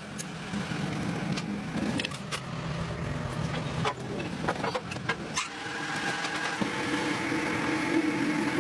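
A motor running steadily, with scattered clicks and knocks over it; about halfway through, the hum's pitch steps up.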